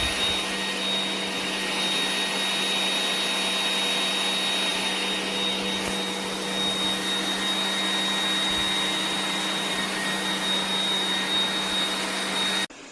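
Robot vacuum cleaner running steadily, a motor whine with a high steady tone over a low hum, which cuts off abruptly near the end.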